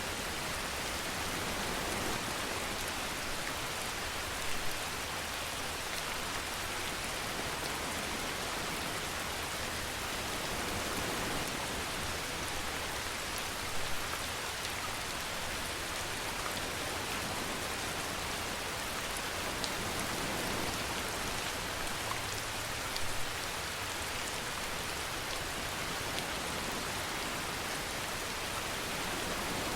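Steady rain falling in a dense, even hiss, with three brief louder moments spread through it.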